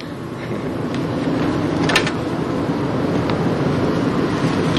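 Steady low rumble of a motor vehicle, swelling over the first second, with a single sharp knock about two seconds in.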